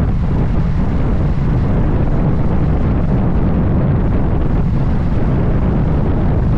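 Loud, steady wind rushing over the microphone of a motorcycle at riding speed, a deep even roar with no break.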